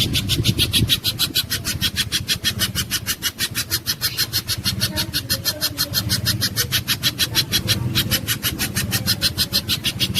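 Spiderhunter (pijantung gunung) giving a fast, even series of sharp chipping calls, about eight a second, over a low hum.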